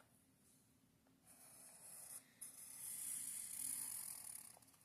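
Sharpie marker tip drawing on a gesso-coated paper page: a faint scratchy hiss in two strokes, a short one starting about a second in, then a longer, louder one after a brief lift of the pen.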